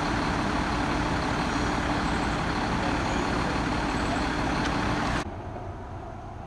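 A motor vehicle engine running steadily, with a constant low hum under a broad noise; it drops away abruptly about five seconds in.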